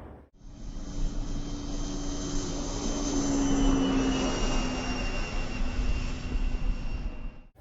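Electric Funjet RC model jet flying under power. Its motor and propeller whine holds steady and slowly sinks in pitch, over a low wind rumble on the microphone.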